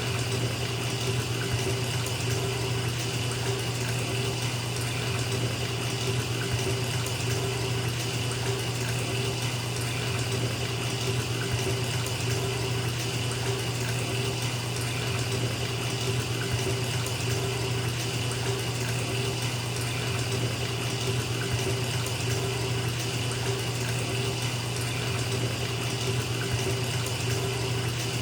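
Bath tap running steadily into a filling bathtub, an even rush of water with a constant low hum underneath.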